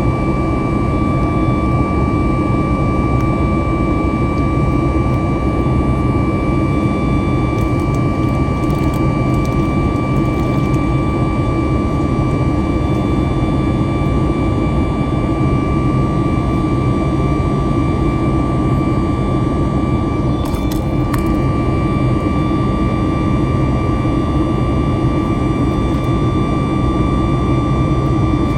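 Jet airliner's engines running, heard from inside the passenger cabin: a loud, steady rush with a constant high whine over it.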